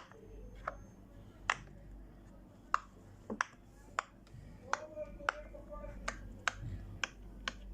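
A series of sharp, separate clicks or snaps, irregularly spaced at about one or two a second.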